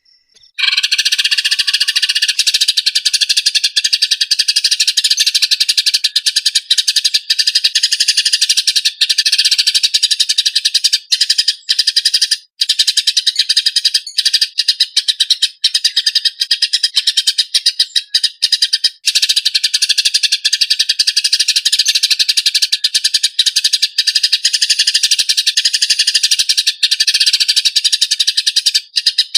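Eurasian tree sparrows giving fast, harsh, tightly packed fighting chatter in an unbroken stream, starting about half a second in.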